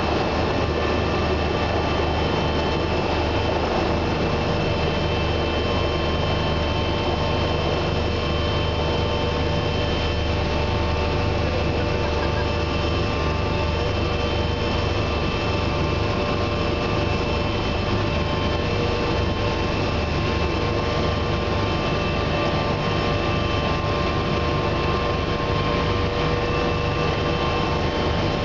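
Bell 429 twin-turbine helicopter in cruise flight, heard from inside the cabin: a steady drone of turbine and rotor noise with several constant whining tones over it.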